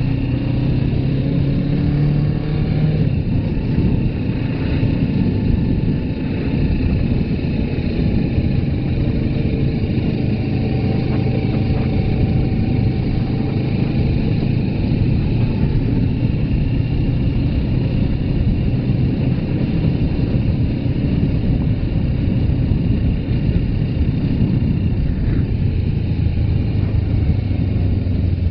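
Suzuki GS500F parallel-twin engine running on the move, its pitch stepping down and back up a few times, under a heavy rush of wind noise on the microphone.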